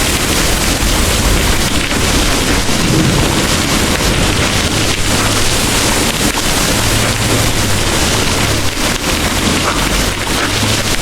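Heavy rain pouring steadily, with a low rumble of distant thunder swelling and fading underneath.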